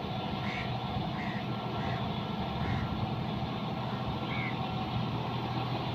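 John Deere 5210 tractor's diesel engine running steadily.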